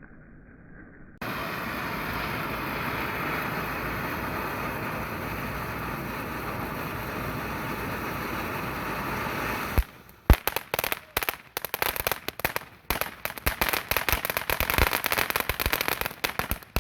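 Consumer firework going off: a steady spraying hiss starts about a second in and runs for about eight seconds. It then breaks into a rapid string of sharp crackling pops and bangs.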